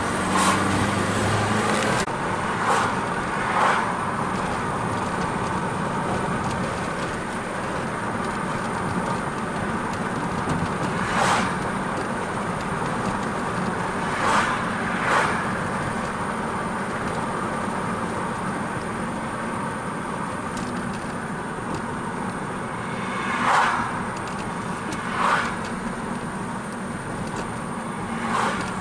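Steady road and engine noise of a car driving along a highway, heard from inside, with several short, louder rushes spread through it.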